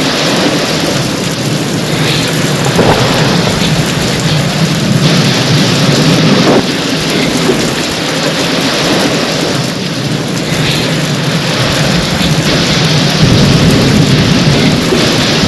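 Heavy rain pouring steadily in a thunderstorm, with a low rumble of thunder that swells in the last few seconds.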